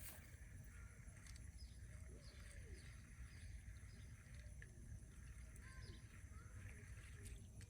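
Near silence outdoors, with faint scattered bird chirps and calls over a low rumble.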